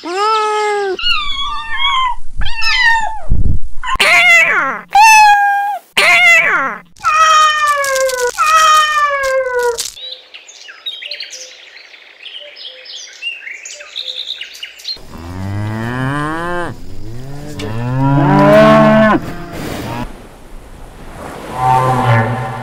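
Kittens meowing, a rapid series of short, high-pitched mews through the first ten seconds or so. From about fifteen seconds in come several much lower, drawn-out animal calls.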